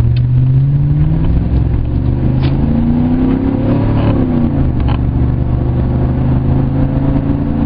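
Chevy Silverado 1500 pickup with a cold air intake and new exhaust, heard from inside the cab: the engine pulls under acceleration with its pitch climbing, climbs again, then drops about four and a half seconds in as the throttle eases off, and settles into a steady cruise.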